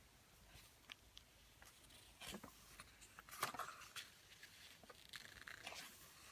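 Faint rustles and light clicks of a paper picture book being handled and its pages turned, amid near silence.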